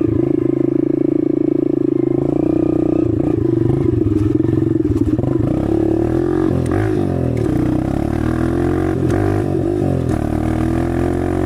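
Small 125 cc dirt bike engine under way at a steady pitch for about five seconds, then revving up and down several times as the throttle and gears change.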